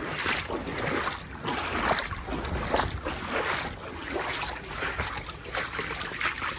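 Water sloshing and swishing around legs in waders, wading through knee-deep floodwater, in uneven surges with each stride.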